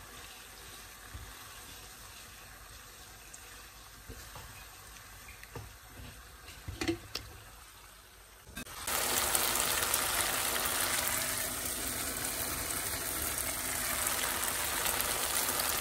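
Boneless chicken pieces frying in a pan of spiced onion-tomato masala. A low sizzle with a few spatula knocks gives way, about nine seconds in, to a sudden, much louder steady sizzle.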